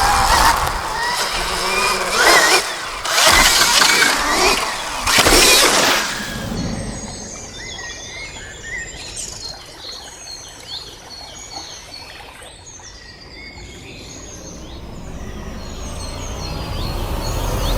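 2024 Stark Varg electric dirt bike riding past in several loud surges during the first six seconds. Then birds chirp while the bike is distant, and it grows louder again near the end as it comes back.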